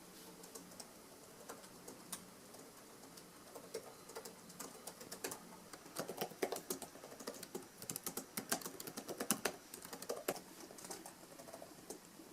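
A run of faint, irregular light clicks and taps that grows busier around the middle and thins out again near the end.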